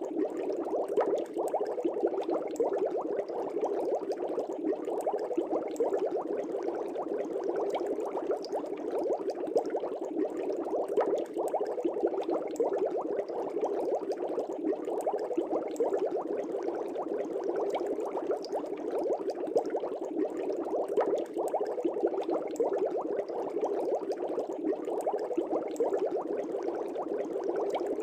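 Air bubbles rising in an aquarium, a steady, dense bubbling made of many tiny pops that never lets up.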